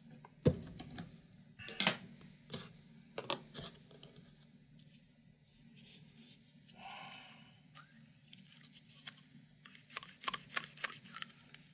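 Sharp clicks and taps of small tools and plastic fan parts being handled: a few single clicks in the first seconds, then a quick run of clicks near the end, over a faint low steady hum.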